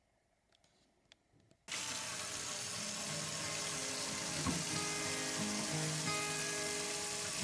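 Kitchen tap turned on, running water starting abruptly about two seconds in and then pouring steadily, with a few faint clicks before it.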